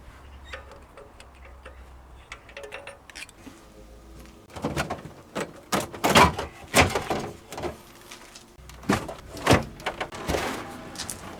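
Workshop knocks and clatters of tools and metal parts while the car's rear underbody is stripped. Faint light clicks at first, then a string of sharp knocks starting about four and a half seconds in.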